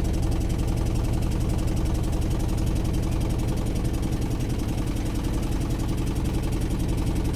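Motorboat engine running steadily: a loud, even low drone with a fast regular throb.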